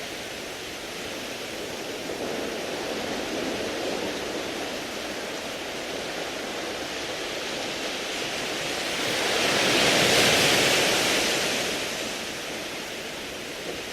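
Waves washing over a beach of smooth, rounded pebbles: a steady wash, with one wave swelling to a louder hiss about ten seconds in and then fading back.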